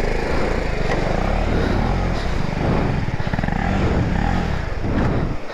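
BMW G 310 GS single-cylinder motorcycle engine running under varying throttle, its revs rising and falling, until it stops suddenly near the end.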